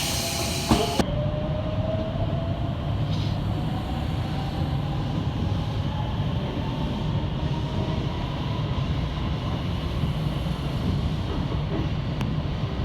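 Electric commuter train pulling away: a hiss of air cuts off about a second in, then a steady running rumble under a faint motor whine that rises slowly as the train picks up speed.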